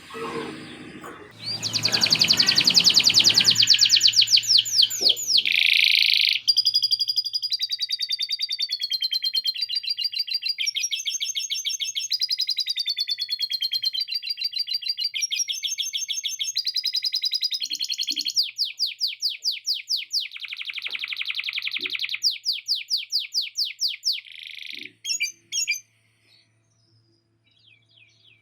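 Male canary singing a long, fast song of trills and rapidly repeated notes, with lovebird-style chattering phrases woven in. The song stops about two seconds before the end.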